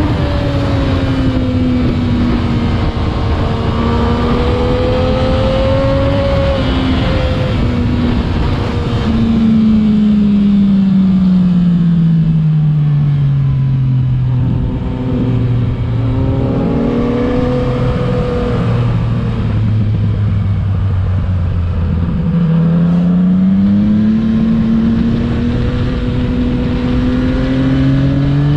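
Yamaha MT-09 (FZ-09) three-cylinder engine through an Akrapovič exhaust while riding, its pitch following the throttle: a long falling note as it slows about a third of the way in, lower uneven running in the middle, then climbing again under acceleration near the end.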